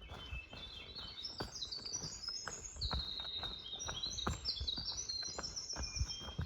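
Birds singing: a busy run of short, high chirping notes, with dull knocks of footsteps on the trail underneath.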